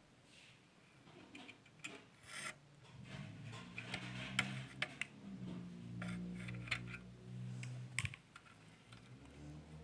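Small irregular clicks and taps of metal tools and a screw being handled on a clothes iron's terminal block, with a low hum underneath through the middle.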